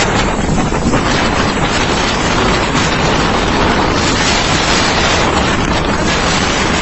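Cyclone winds blowing hard on the microphone: a loud, steady rushing noise.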